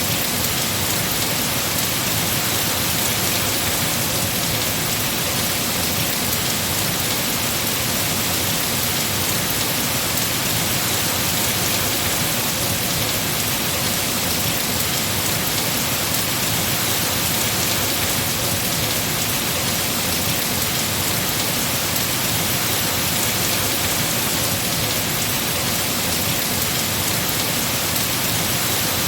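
Heavy, steady rain falling on trees and foliage, a dense even hiss with no breaks.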